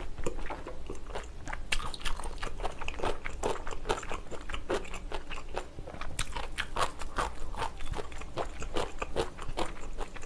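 Close-miked chewing of a mouthful of food, with many small, irregular wet clicks and crunches.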